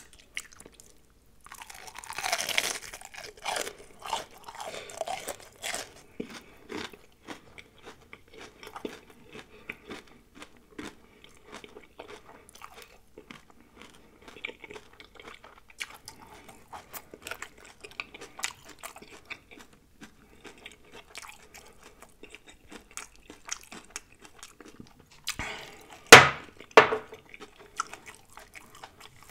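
Battered fried shrimp being bitten and chewed close to a microphone: a burst of crunching about two seconds in, then scattered smacks and small crunches as it is chewed, and the loudest crunching bite near the end.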